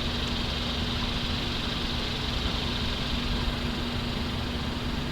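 An engine idling steadily, a constant low drone with an even hiss over it.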